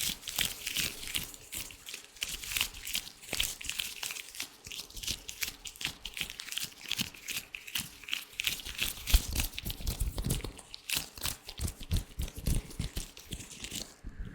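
Latex gloves rubbed and handled, making a dense stream of small crinkles and crackles. Low thuds join in about nine seconds in.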